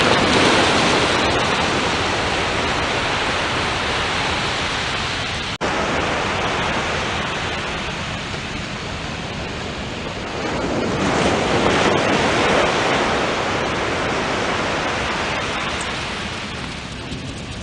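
Ocean surf washing on the beach: a steady rush of noise that swells twice as waves come in, with a brief dropout about five and a half seconds in.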